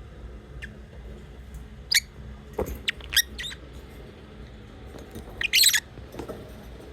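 Lovebirds chirping: a few short, sharp chirps about two to three and a half seconds in, then a louder burst of rapid chirps about five and a half seconds in.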